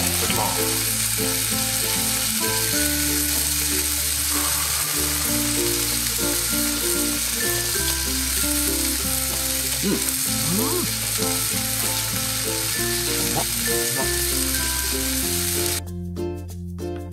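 Slices of meat sizzling as they sear in a frying pan on a wood stove, a steady hiss that stops abruptly near the end.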